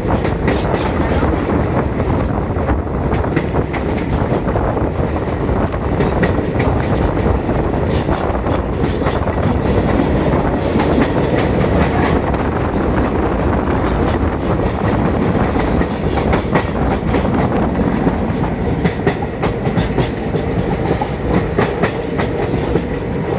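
Passenger train running at speed, heard from on board: a steady loud rumble with the wheels clattering and clicking over the rails.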